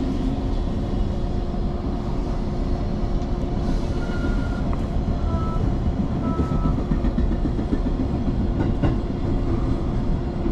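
Train running on the rails: a steady low rumble with wheel clatter and a steady hum, and a few faint short high tones about halfway through.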